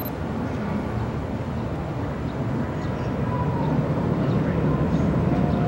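Electric commuter train running in around a curve toward the station platform, a low rumble that grows steadily louder as it nears. Two faint, short, thin whines show in the second half.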